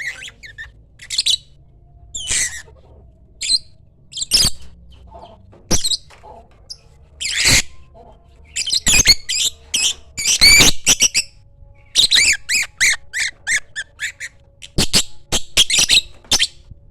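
Lovebird calling: short, high-pitched squawks and chirps with pauses between them, then quick runs of repeated calls, about three a second, in the second half.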